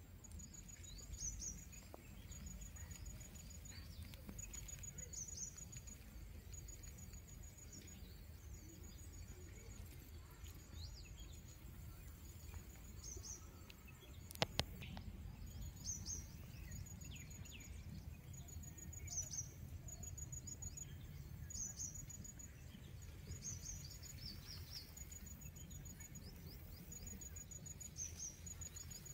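Faint outdoor ambience of birds calling: repeated short trains of rapid high notes and quick falling chirps, over a low steady rumble. Two sharp clicks about halfway through.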